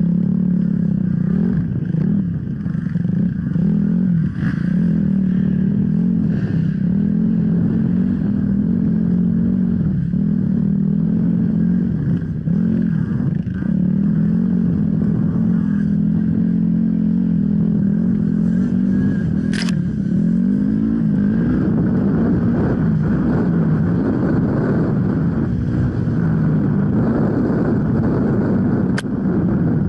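Off-road enduro motorcycle engine running continuously under changing throttle, its pitch wavering up and down. Two sharp clicks stand out, one about two-thirds of the way through and one near the end.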